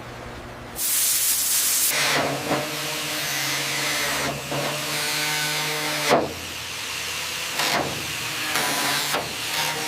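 A steady mechanical hum with several loud bursts of hissing, the first about a second in and then every second or two.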